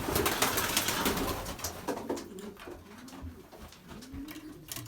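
Racing pigeons cooing: several soft, low, rising-and-falling coos in the second half, after a couple of seconds of rustling and scuffling.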